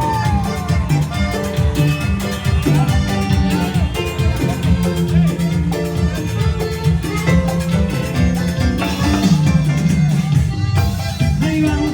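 A band playing Latin dance music with a steady drum beat, bass and melody instruments.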